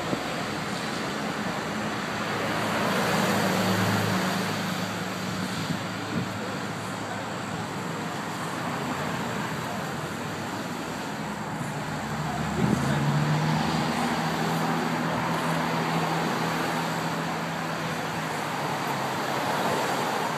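Road traffic going past: vehicle engines humming and tyre noise, swelling as vehicles pass about three seconds in and again about twelve seconds in.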